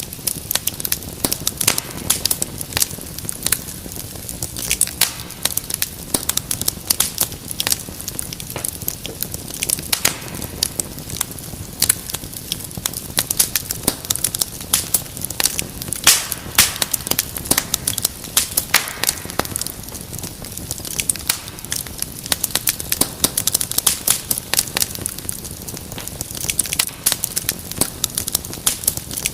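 Wood fire crackling and popping, with many irregular sharp snaps over a steady low hiss.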